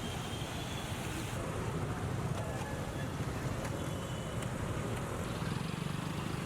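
Road traffic on a flooded street: vehicle engines running under a steady wash of noise, with a couple of faint short high tones.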